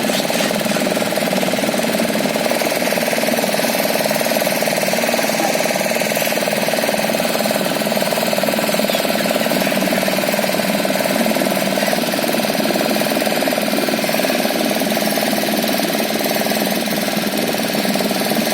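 An engine running steadily at a constant speed, an even drone with no change in pitch or level.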